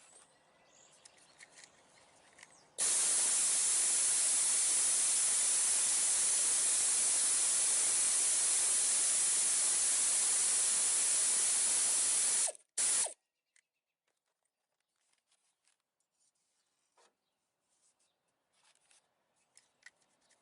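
A loud steady hiss starts about three seconds in, holds for about ten seconds and cuts off abruptly, then comes back in one short burst. Faint clicks and rubbing follow.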